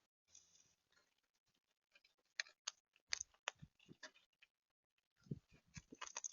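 Faint, irregular clicking and tapping of birds and squirrels feeding at a bird feeder, pecking and handling seed. It starts sparse, comes in a quick run of sharp ticks in the middle, and turns into a few duller knocks near the end.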